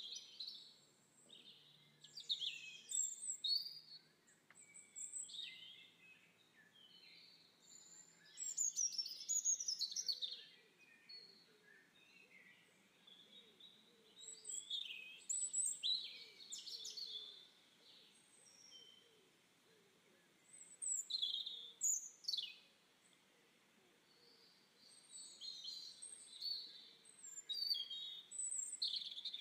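Birds chirping and singing: clusters of quick, high calls with short falling sweeps, coming in bursts every few seconds.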